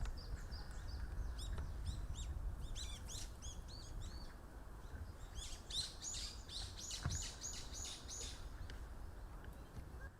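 Bird calls: many short, high, chirping notes, thickening in the second half into a quick even run of about four notes a second, over a low rumble.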